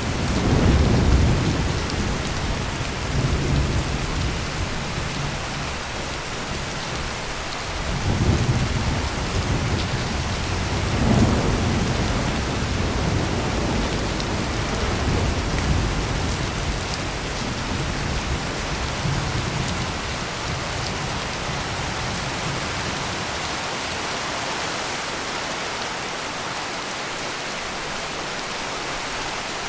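Heavy rain pouring steadily, with low rolls of thunder rumbling in the first half that die away, leaving only the rain.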